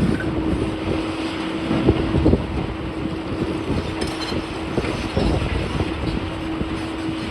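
Heavy demolition machinery running, a steady engine hum with irregular low knocks and crunches through it.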